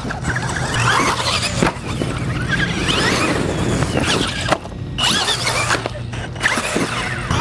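Axial SMT10 radio-controlled monster truck being driven hard: its electric motor and drivetrain whine up and down in pitch with the throttle, over a steady rushing noise, and the whine drops out briefly a little past halfway.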